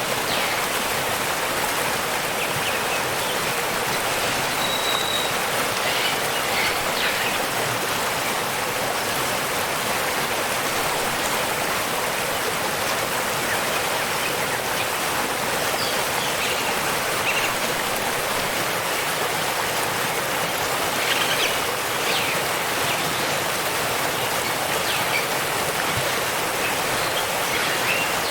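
Waterfall and stream water rushing steadily, with a few faint bird chirps now and then.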